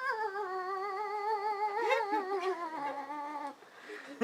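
A cat's long, drawn-out wavering yowl that rises and falls in pitch, almost sung, breaking off about three and a half seconds in, with another yowl starting near the end.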